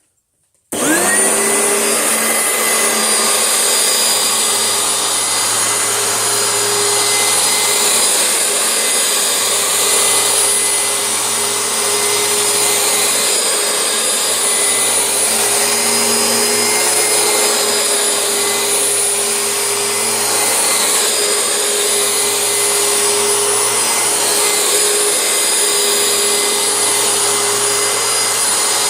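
Oreck upright vacuum cleaner switched on about a second in, its motor whine rising as it spins up, then running steadily while its soft-bristled brush roll is run over carpet.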